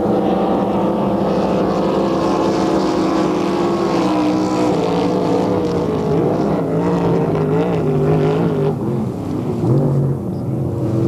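Racing motorboat engine running loud and steady. From about halfway through, its pitch wavers up and down as the throttle changes.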